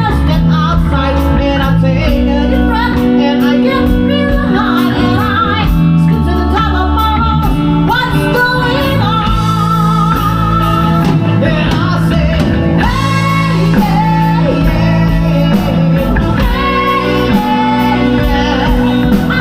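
Live rock band playing a song: a vocalist singing over electric guitar, bass and drums.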